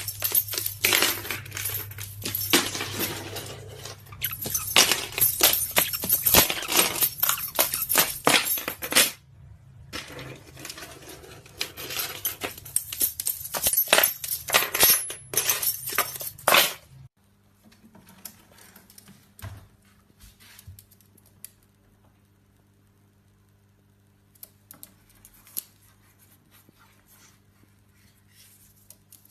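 Rapid, busy metallic clinking and jangling, like small metal objects being knocked and rattled about. It stops abruptly about seventeen seconds in, leaving only faint scattered taps over a low hum.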